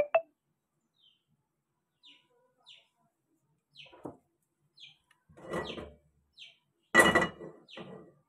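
Small bird chirping: short high chirps about once a second. A sharp double click comes at the very start, and a louder clatter about seven seconds in.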